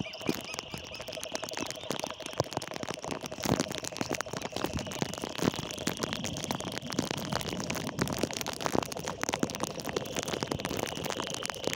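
Steady heavy rain: a dense patter of raindrops with many small crackling ticks. A faint high steady tone comes and goes over it.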